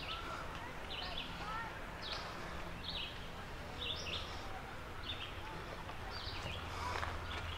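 A bird repeating a short, high call roughly once a second, over faint steady outdoor background noise.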